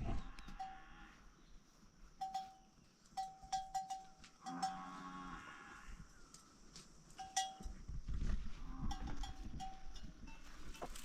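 A livestock bell clinking on and off in short rings, with an animal's low call about halfway through.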